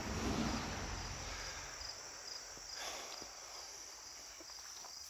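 Crickets chirring in a steady high-pitched chorus with a faint pulsing. A rushing noise fades away over the first couple of seconds, with a few faint ticks later on.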